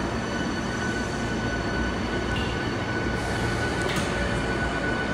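Hankyu 9300 series electric train in an underground station: a steady rumble with a thin steady tone above it. A short click about four seconds in.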